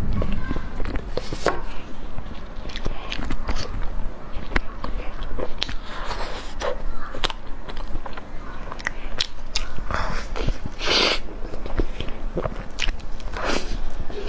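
Close-miked eating: chewing and biting, with wet mouth clicks and smacks and a few louder noisy bursts near the end.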